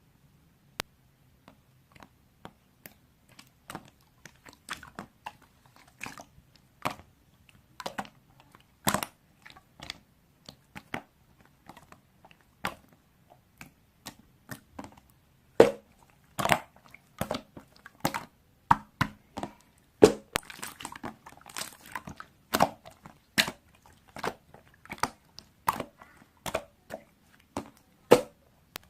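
A series of short, irregular crunches and clicks, sparse at first, then coming faster and louder from about halfway through.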